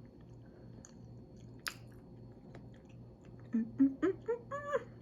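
A person chewing food close to the microphone, with small wet mouth clicks and one sharper click a little under two seconds in. Near the end come a few short hums, each rising in pitch.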